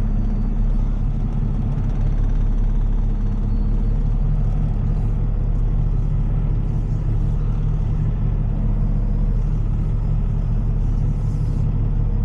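Heavy diesel tow truck engine idling steadily, heard from inside the cab.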